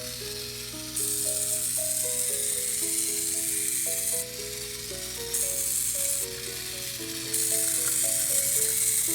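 Simple electronic tune of plain stepping notes from a GeoTrax toy train's sound chip, with a high hiss that cuts in and out abruptly every second or few.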